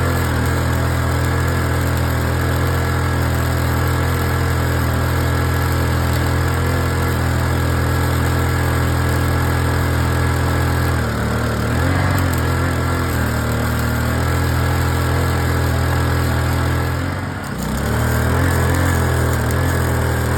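A 1965 Triumph Bonneville T120C's 650 cc parallel-twin engine running steadily at idle. Its note shifts slightly about halfway through and briefly dips near the end.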